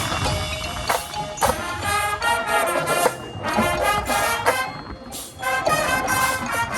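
Marching band playing, with brass holding chords over percussion and sharp hits, the music thinning briefly about five seconds in. A low rumble of wind buffets the microphone underneath.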